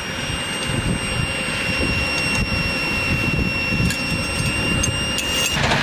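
Steady running noise of a train, a dense rumble with hiss, with a thin high whine held steady that cuts off near the end.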